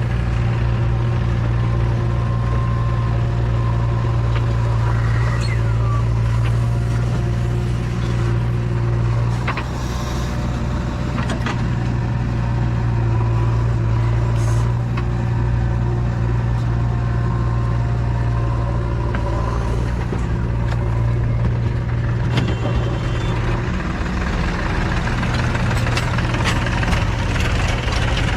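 JCB 3DX backhoe loader's diesel engine running steadily with a deep, constant hum, with a few sharp knocks scattered through.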